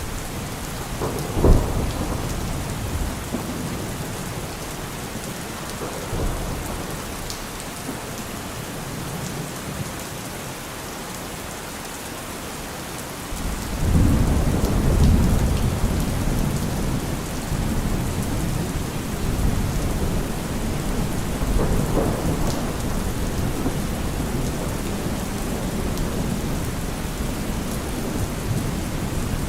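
Steady rain with thunder. There is one sudden loud crack about a second and a half in. About halfway through, a low rolling rumble of thunder swells up and carries on under the rain to the end.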